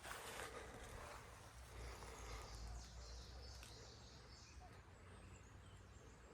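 Faint rural outdoor ambience: distant birds chirping now and then over a low steady rumble.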